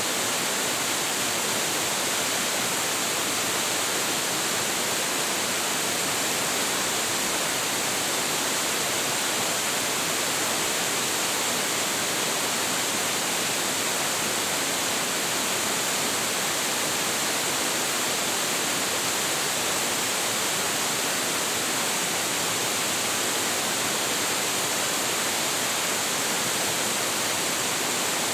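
Large waterfall, a steady, unbroken rush of falling water with a bright hiss.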